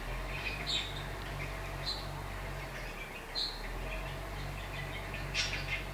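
Budgerigars giving a few short, faint chirps over a steady low hum.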